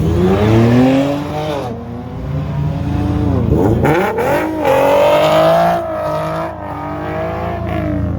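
Car engine revving hard, its pitch climbing and dropping several times, over the steady low rumble of other engines.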